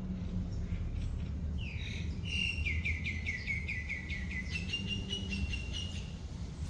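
A bird singing a quick run of short falling notes, about four a second, then a few steadier, higher notes, over a steady low background rumble.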